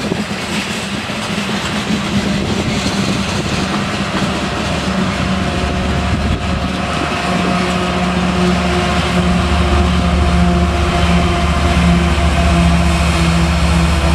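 Coal train's hopper cars rolling past on the rails. From about six seconds in, the rear distributed-power locomotive, a BNSF GE ES44AC, comes by and its diesel engine's steady drone and low rumble grow louder.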